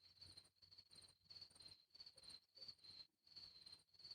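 Crickets chirping faintly in the night, a high chirp repeating evenly about three times a second.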